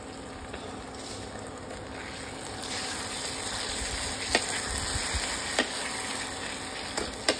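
Onion-and-spice masala frying in oil in a kadhai with a steady sizzle as chopped tomato goes in; the sizzle grows louder about three seconds in. A few sharp clicks are heard.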